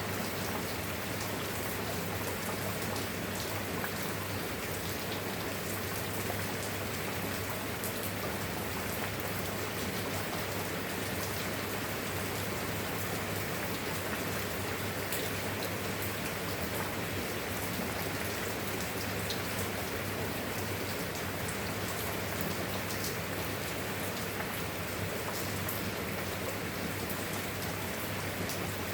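Steady rain falling, with scattered sharp drop ticks on top and a steady low hum underneath.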